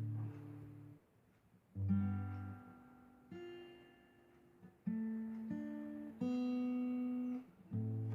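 Acoustic guitar playing the song's closing chords with no singing, each chord struck and left to ring and fade, with a brief pause about a second in.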